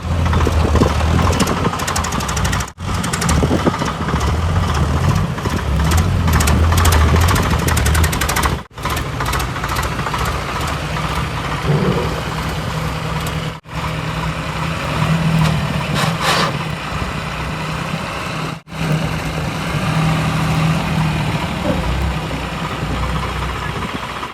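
Heavy diesel engines running at an earthmoving site, with the steady low hum of the machines, in several short clips separated by abrupt cuts.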